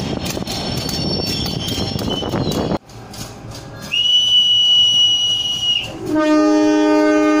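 A CC203 diesel-electric locomotive running past with a rumble and wheel clatter, cut off abruptly; then a single long, high, steady whistle blast of about two seconds, and near the end a locomotive horn starting a long chord-like blast: the departure whistle answered by the horn as the train leaves.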